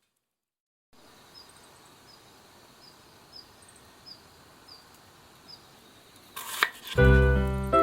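Faint, regular high chirps, about one every half second, from a small calling animal over a quiet outdoor hiss, after a second of silence. Loud music comes in near the end.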